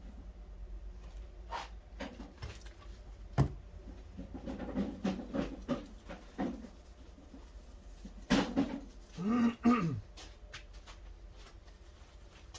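Scattered knocks and clicks of objects being handled, with one sharp knock about three and a half seconds in. Near the end comes a brief voice-like sound.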